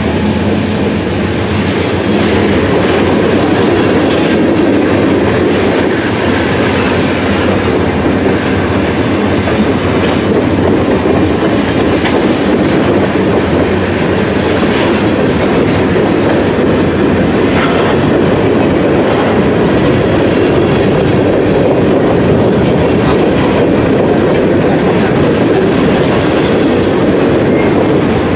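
A freight train's cars rolling past: a steady rumble of steel wheels on the rails, with scattered clicks as wheels cross rail joints.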